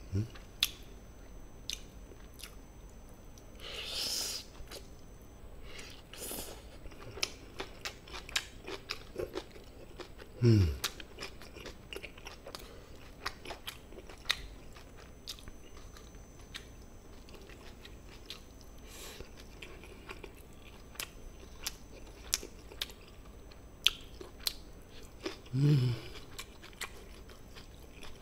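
Close-miked chewing and mouth sounds of a person eating tender gochujang-marinated chicken, with many small wet clicks and smacks. Twice a short falling hum, about ten seconds in and near the end.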